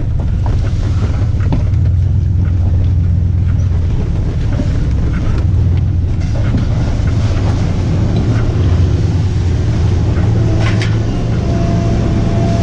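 A vehicle engine running steadily with a low rumble, with a few faint clicks and knocks over it.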